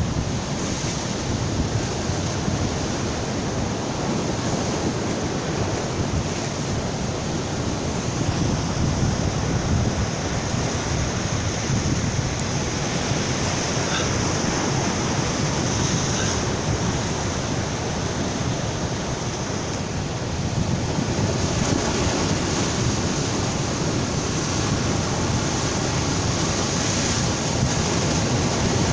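Strong ocean surf breaking and washing on a beach, a steady rushing that swells a little louder about two-thirds of the way through, with wind on the microphone.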